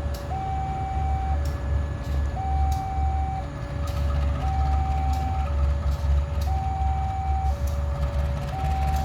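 Railway level-crossing warning alarm alternating between a higher and a lower electronic tone, each held about a second, over a steady low rumble and scattered sharp clicks.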